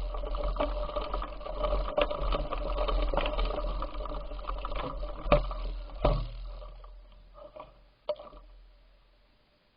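Bicycle riding noise: rattling and clicking from the bike over a low rumble, dying away over the last few seconds.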